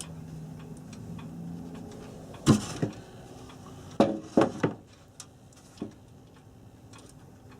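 Plastic clock case and a small metal pull-chain switch being handled as its mounting nut is fitted: a few sharp knocks and clicks, one cluster about two and a half seconds in, another about four seconds in, and a lighter click near six seconds.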